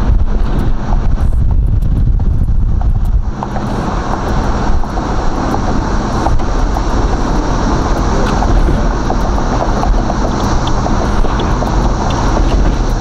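Box Chevy Caprice's stock small-block V8 running steadily at cruise, heard from inside the cabin together with a steady wash of wind and road noise.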